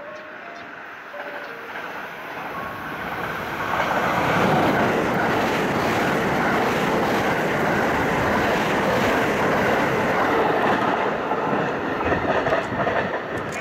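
Limited express electric multiple-unit train passing through a station at speed without stopping: the noise rises as it approaches and stays loud and steady for several seconds as the cars rush past, then eases near the end.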